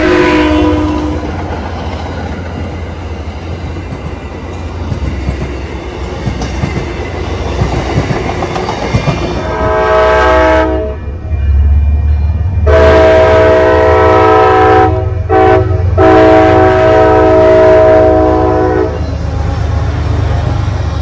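Commuter-rail diesel trains: a multi-chime locomotive air horn dies away as the train rushes past with a low rumble and wheel clatter on the rails. About halfway through the horn sounds again in a series of blasts, a short one followed by a long final one, as the locomotive nears a road grade crossing.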